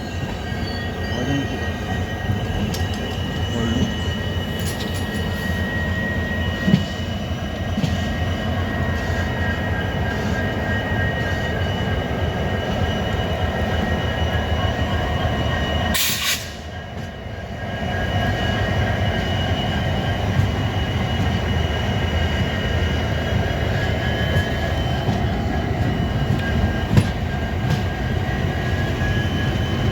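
A train running on the rails: a steady low rumble with a high-pitched squeal held over it. About sixteen seconds in there is a sharp click, and the sound drops away for a couple of seconds before returning.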